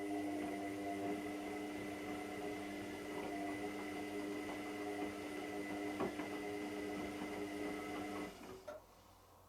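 Hotpoint Extra WMXTF742K washing machine running with a steady mechanical hum and a faint high whine, likely a pump or motor, which cuts off about eight seconds in with a couple of clicks.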